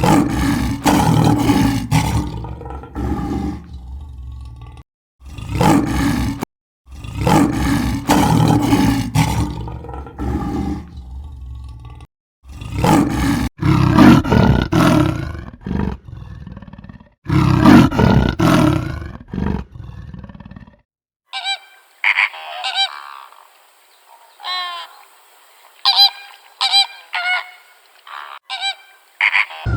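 Farm animals calling loudly: a series of five long, full-bodied cries with a deep undertone. About 21 seconds in, a different, thinner-voiced animal takes over with short repeated calls.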